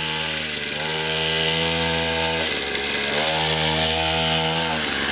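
Pit bike engine revved twice, each rev held for about a second and a half before dropping back down.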